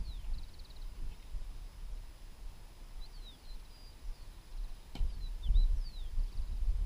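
Small birds chirping, with short falling whistles and quick trills, over a low uneven rumble that grows louder in the last two seconds.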